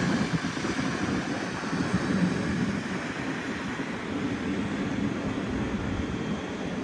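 Train running past with a steady rumbling noise that slowly fades.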